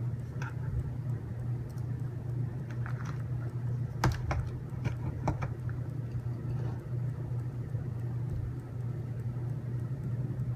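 Scattered small clicks and taps of screws and plastic robot-kit parts being handled and screwed together, several in quick succession about four to five seconds in, over a steady low hum.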